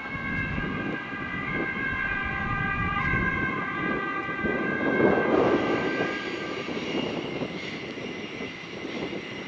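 WESTbahn Stadler KISS double-deck electric train rolling away through curved station pointwork. Its wheels rumble under a steady high squeal of several tones. The rumble is loudest about five seconds in, and the squeal fades out a couple of seconds later.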